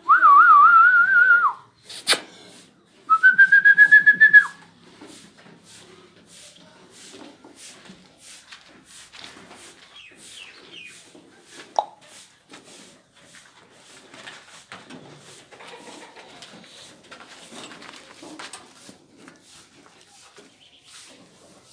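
A person whistling twice, loudly. The first whistle warbles up and down for about a second and a half; the second, about three seconds in, rises and then holds on one note. Sharp clicks come after the first whistle and again near the middle, with faint ticking in between.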